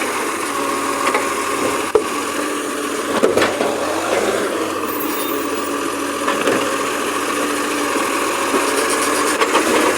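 Garbage truck engine running steadily, with a few sharp knocks and rattles, the clearest about two and three seconds in.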